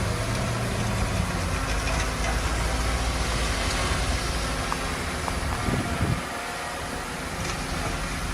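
Diesel engine of heavy earthmoving machinery running, with a steady low drone that drops a little in level about six seconds in.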